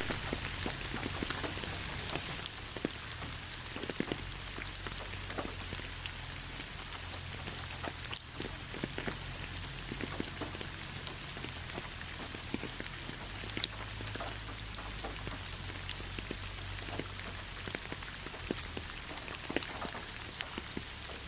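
Steady rain falling, a constant hiss with many individual drops tapping sharply at irregular moments.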